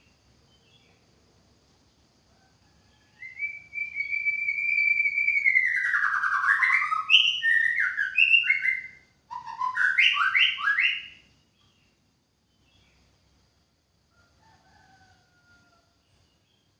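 White-rumped shama singing: a long whistled note that slides downward, then a string of quick varied notes, a brief break, and a fast run of repeated notes. A faint short call follows near the end.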